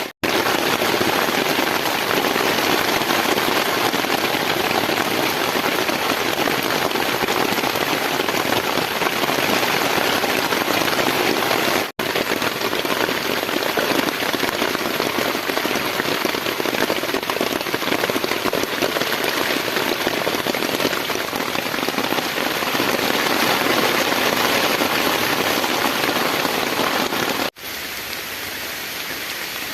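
Heavy rain pouring down in a steady, dense hiss. The sound cuts out abruptly for an instant twice, and near the end it comes back quieter and duller.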